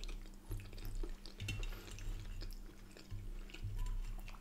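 Faint close-miked chewing and small mouth noises, with light clicks of a fork and knife on a plate.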